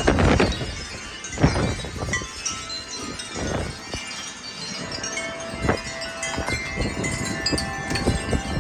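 Wind chimes ringing and jangling quickly in strong gusty wind, one lower tone held longer in the second half. Gusts rumble on the microphone in blasts at the start and about a second and a half in.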